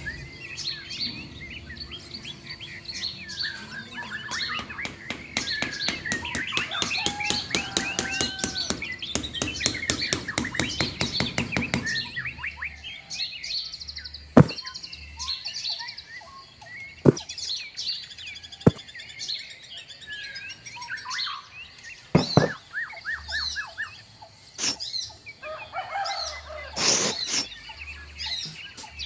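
Birds chirping and tweeting throughout. Over the first ten seconds or so a fast run of clicks and taps plays under the birdsong, and a few single sharp knocks follow, as wooden posts are set down on the diorama's gravel base.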